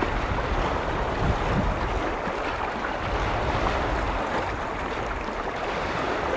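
Lake waves washing in steadily, with wind rumbling on the microphone.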